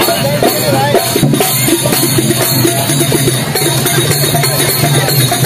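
Loud, percussion-heavy music: drums beating a busy, steady rhythm.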